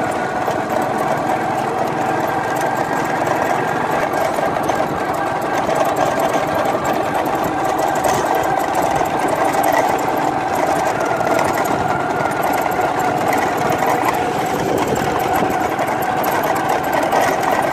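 Small motorcycle engine running steadily under way, heard from the rider's seat.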